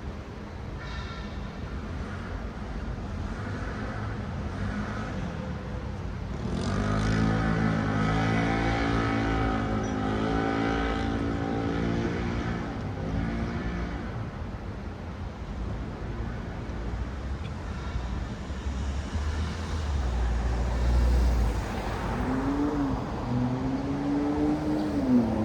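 Road traffic with cars passing steadily. One vehicle's engine note is loud from about six to fourteen seconds in, and near the end an engine revs up and eases off.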